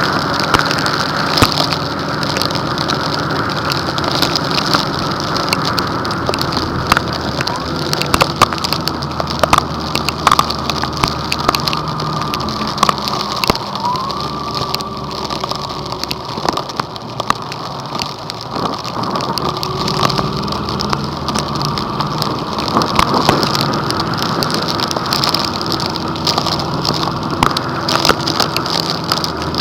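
Heavy rain beating down on a car, with many sharp drop impacts over a steady engine and road hum.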